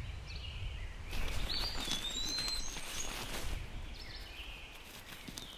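A bird gives a few short whistled calls, rising then gliding down, about a second and a half in, over faint low background noise.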